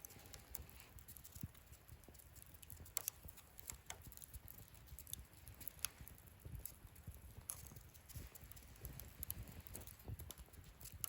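Wood fire burning in a fire pit stand, crackling with irregular sharp pops over a low rumble, a few louder pops about three seconds and six seconds in.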